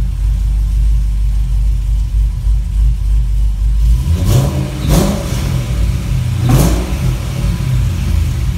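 Chevrolet Camaro SS 6.2-litre V8 with long-tube headers and a stainless X-pipe exhaust, idling with a deep steady rumble and blipped three times: two quick revs about halfway through and another about a second and a half later. Heard from inside the cabin.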